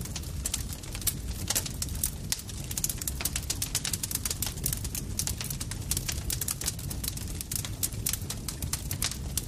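Campfire crackling: dense, irregular pops and snaps over a steady low rumble of the burning fire.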